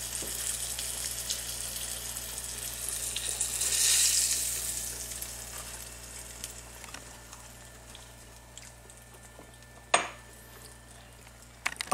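Zucchini slices frying in oil in a skillet: a crackling sizzle with scattered pops that swells about four seconds in, then dies down. A single sharp clink about ten seconds in.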